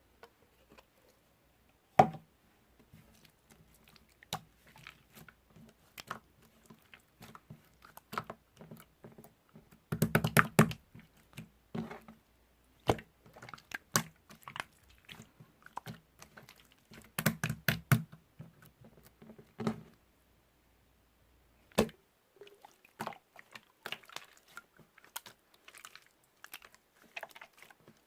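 Close-up mouth sounds of eating or drinking: irregular small clicks and smacks, denser and louder in bursts about ten seconds in and again around seventeen to twenty seconds, with a sharp click about two seconds in.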